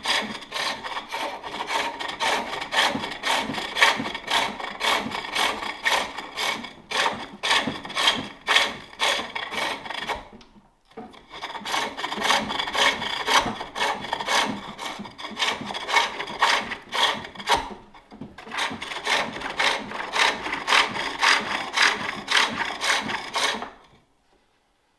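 Turning tool cutting a wooden bowl on a spring pole lathe, a rhythmic scraping that repeats with each treadle stroke as the work spins back and forth. It pauses briefly twice and stops shortly before the end.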